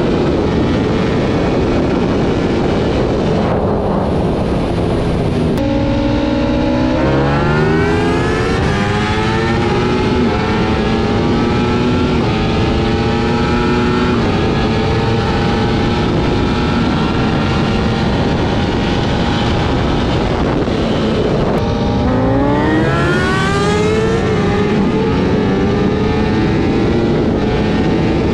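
Race-tuned Ducati Panigale V4 S's V4 engine pulling hard at high speed in fourth gear, over heavy wind rush. Twice the engine note drops suddenly as the throttle is rolled off, then climbs steeply and levels out as the bike accelerates again.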